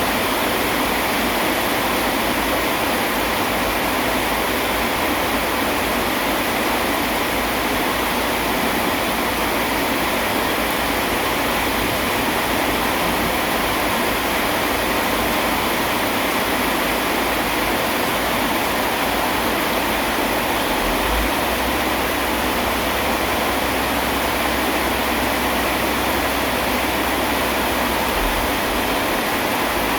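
Steady, even rain noise.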